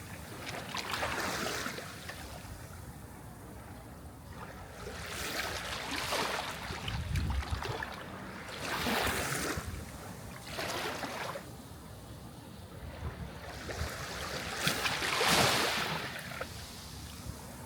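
Sea waves washing in, a hiss of surf that swells and fades about five times, the loudest surge near the end.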